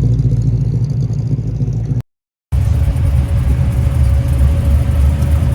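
Car engine running steadily with a deep, low rumble, no revving. The sound cuts out completely for about half a second two seconds in, then the same rumble resumes.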